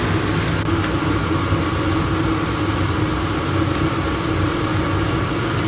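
Spinach and potato frying in a pan: a steady sizzling hiss over a steady low hum.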